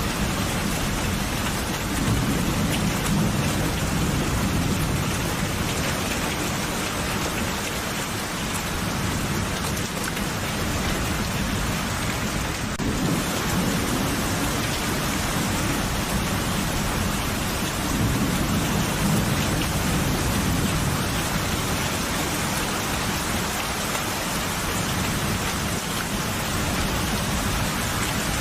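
Steady heavy rain falling, with low rolling thunder that swells up twice, about two seconds in and again past the middle.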